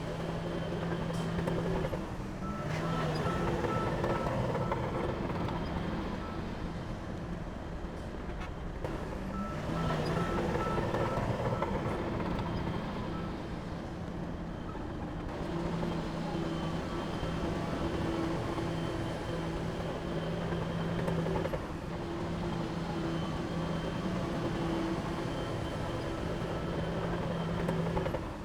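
Heavy diesel machinery running steadily under load, with a reversing alarm beeping in a repeating pattern for about the first half and again near the end.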